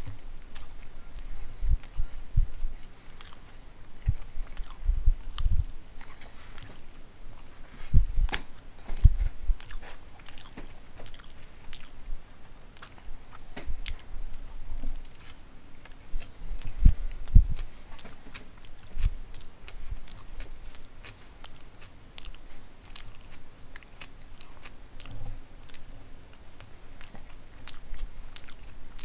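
Close-up chewing and biting of a footlong sub sandwich, with many wet mouth clicks and smacks and a few dull thumps.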